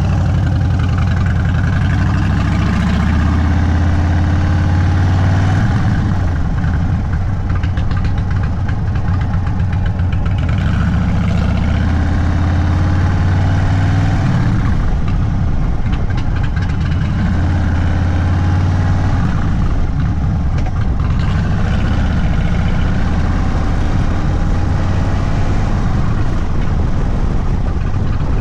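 Indian Sport Chief's Thunderstroke 116 V-twin running through a Sawicki Speed aftermarket exhaust, its pitch rising and falling several times as the throttle opens and closes.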